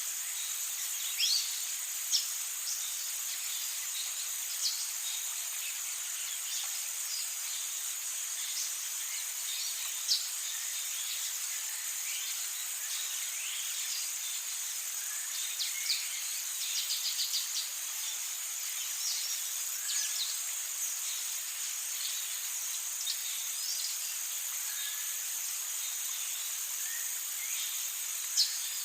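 Amazon rainforest ambience: a steady high-pitched insect drone, with many short bird chirps and calls scattered over it and a quick run of repeated notes a little past halfway.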